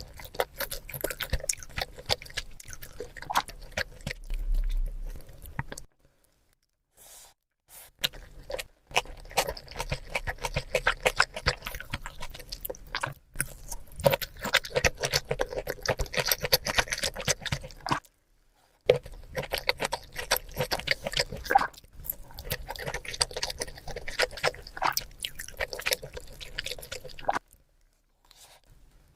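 Close-miked chewing and eating of rice and grilled chicken: rapid wet clicks and crunches. It runs in long stretches with a few short dead-silent gaps between them.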